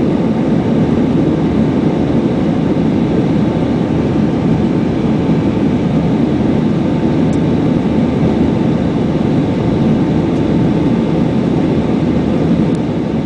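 Steady jet engine and airflow noise heard inside the cabin of an Airbus A320 airliner during departure, with a faint steady hum and a few tiny ticks.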